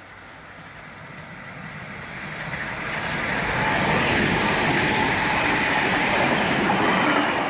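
A four-car Sydney Trains V-set double-deck electric train running through the station without stopping. Its rushing wheel and running noise builds steadily over the first four seconds as it approaches, then stays loud as it passes.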